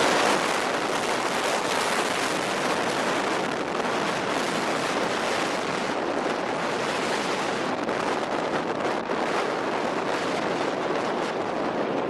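Steady, even roar of heavy city traffic.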